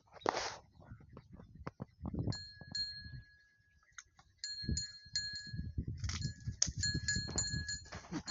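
Dogs vocalising with low, rough sounds, joined by a run of short, high, two-pitched chirps from a little after two seconds that grows more frequent toward the end.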